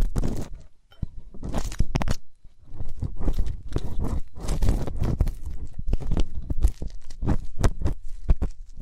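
Ear-cleaning ASMR: close, crunchy scratching and rubbing on an ear microphone, in quick irregular strokes with two short pauses near the start.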